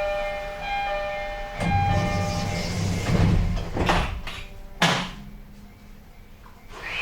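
Door-closing chime of an E131-series commuter train ringing in repeated two-note tones, then its sliding doors running shut, ending in two sharp thumps about four and five seconds in.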